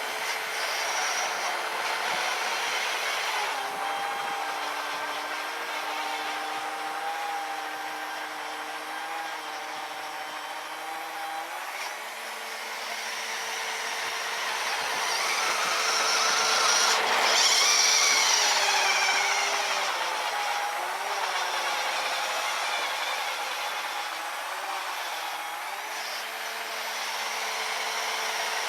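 RC snowblower's brushed 550 electric motor whining as it drives the auger through powder snow, its pitch stepping up and down, over a steady hiss and growing louder a little past halfway before easing off.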